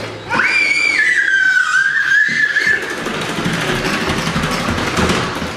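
Vacuum cleaner motor running with a steady buzzing whir. Near the start, a high-pitched squeal rises in and then slides slightly lower before stopping, lasting about two and a half seconds.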